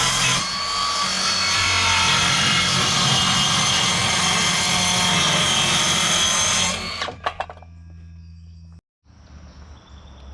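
Power tool working on framing lumber in one continuous run of about seven seconds, then stopping abruptly, followed by a few clicks.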